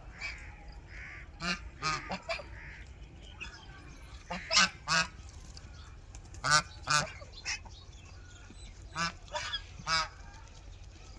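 Birds calling: about a dozen short, loud calls, mostly in quick pairs or threes, with gaps of a second or two between groups.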